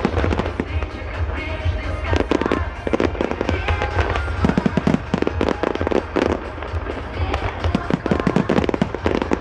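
Fireworks display: aerial shells bursting in quick succession, many sharp bangs close together, some in clusters, over a steady low rumble.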